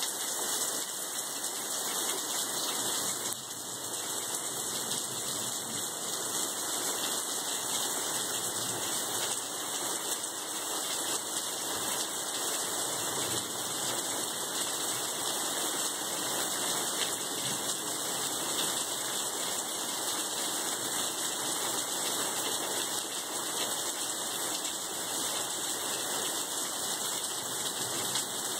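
Steady rain falling on wet pavement during a thunderstorm, an even hiss with no break.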